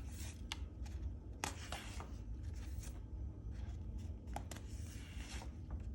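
Paper of a picture book being handled and its pages turned: soft brushing rustles and a few light clicks, over a steady low hum.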